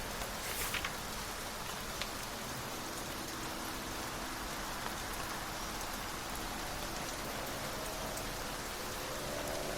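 Steady rain falling, a dense even patter. A few sharp ticks sound under a second in, and a faint steady hum of several tones comes in about three seconds in and grows louder near the end.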